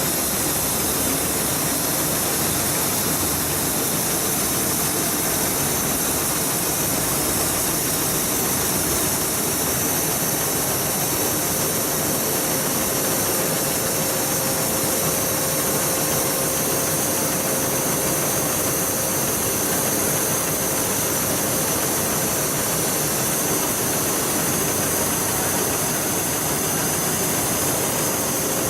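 Hightex BAS-14090 bridge-type pattern sewing machine running: a steady mechanical noise with a strong hiss and a faint steady tone.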